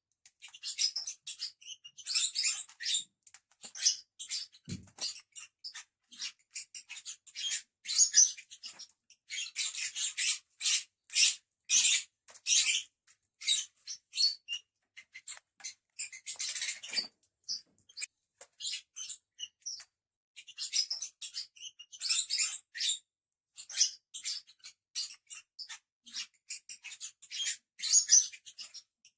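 Several pet lovebirds chattering: many short, shrill chirps and squeaks in quick succession, coming in busy stretches with brief lulls.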